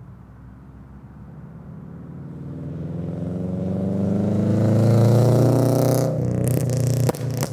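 2022 Subaru BRZ's 2.4-litre flat-four breathing through Tomei unequal-length headers, a catless front pipe and a Greddy RS exhaust, climbing steadily in revs to a loud peak about five seconds in. The revs then drop off as the throttle closes, and the catless exhaust crackles and pops through the last second or so.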